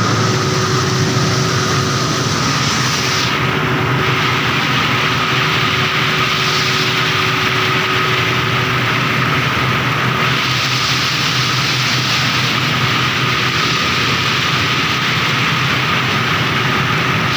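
Steady vehicle noise: an even rushing hiss that does not let up, with a thin constant whine through it.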